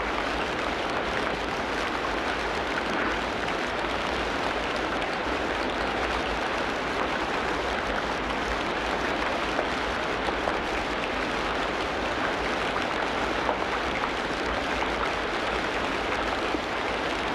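Tropical rainforest ambience: a steady, even hiss of heavy rain falling, with no break.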